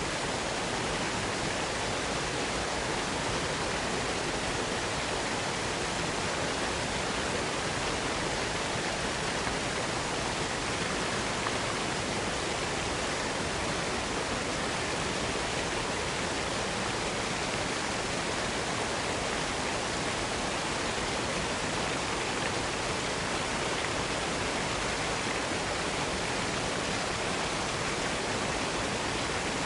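Waterfall pouring in a steady, unbroken rush of water noise, even and unchanging throughout.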